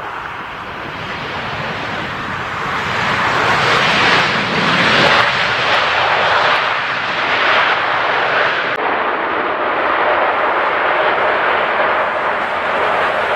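Jet airliner on landing approach passing close by: the engine and rushing air noise build over the first few seconds, peak about five seconds in, then stay loud as it goes past.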